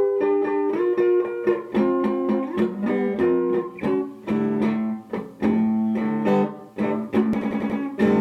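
Guitar playing a blues accompaniment: plucked notes and chords in a steady rhythm, with a quick run of rapid picking about seven seconds in.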